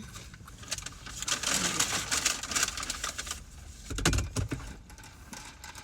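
Rustling and crackling with many small clicks for about two seconds, from things being handled at a meal table, then a dull thump about four seconds in.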